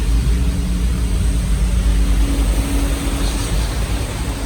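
A car driving, its engine and tyres making a steady low rumble with a faint steady hum over it.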